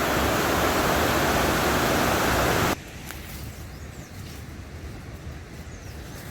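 Heavy rain as a loud, steady hiss that cuts off suddenly a little under three seconds in, leaving a much quieter hiss with a few faint ticks.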